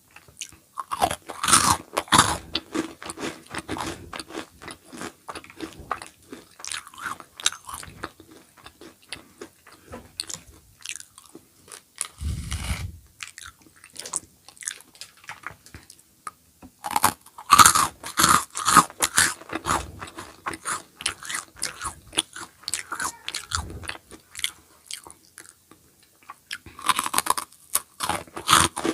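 Close-miked biting and chewing of a crunchy snack, with loud crackly bursts of crunching near the start, just past the middle and near the end, and softer chewing between them. A single low thud about twelve seconds in.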